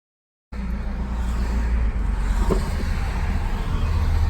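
After half a second of silence, a 2010 Ford Ranger pickup running, a steady low rumble.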